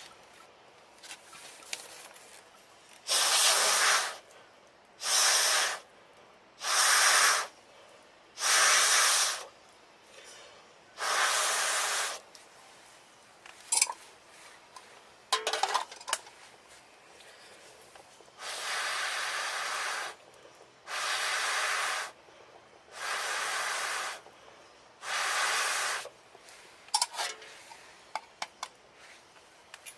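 Breath blown through a fire-blowing pipe into a campfire to liven the embers, heard as one-second puffs of hiss about two seconds apart: five in a row, a pause, then four more. Small clicks and crackles sit between the puffs.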